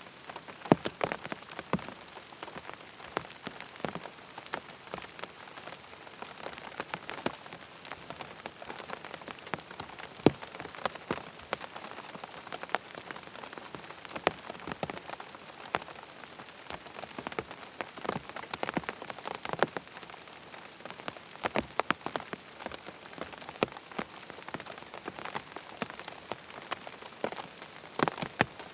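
Steady rain falling, an even hiss with many separate drops striking close by at irregular moments.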